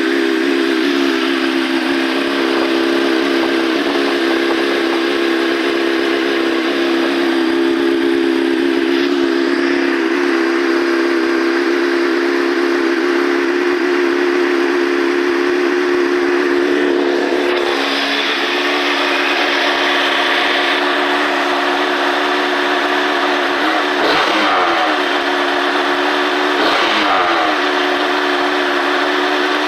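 Honda CBR929RR's inline-four running through a Yoshimura full titanium exhaust, idling steadily and evenly just after a cold start while it warms up. Its idle note drops slightly about two-thirds of the way through.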